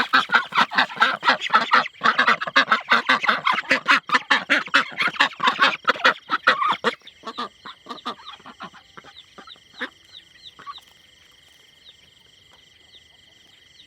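A flock of farm fowl calling loudly and densely, the calls thinning out about seven seconds in. After that a steady high tone with a short chirp repeating about twice a second carries on under a few scattered calls.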